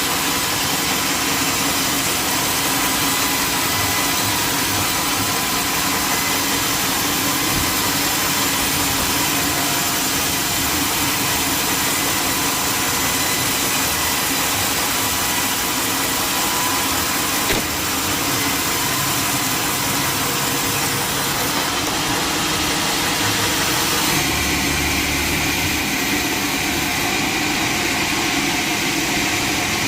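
Sawmill machinery running steadily, an engine-like drone with a constant whine over broad noise, which shifts in tone about two-thirds of the way through.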